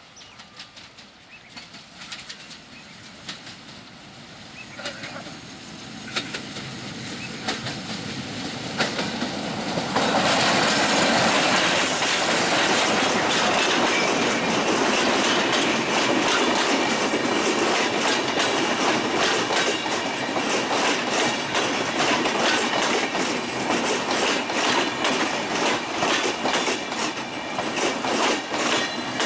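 A WDM-3A diesel locomotive hauling a train of LHB passenger coaches approaches and passes at speed. The sound builds over the first ten seconds and jumps sharply as the train reaches the microphone. After that the coaches' wheels clatter steadily over the rail joints.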